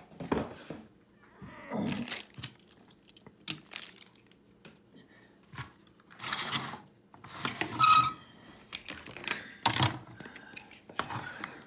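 Plastic Hot Wheels Track Builder pieces being handled, moved and fitted together: scattered clicks, rattles and scrapes, with louder clattering about six to eight seconds in.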